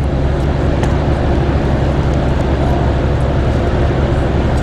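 Triumph Tiger 800 motorcycle's three-cylinder engine ticking over steadily at idle, an even low hum with no revving.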